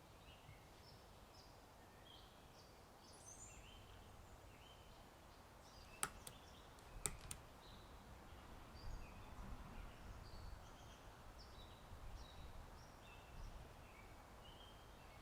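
Faint birdsong of short chirps throughout, over a low wind rumble, with two sharp clicks about six and seven seconds in.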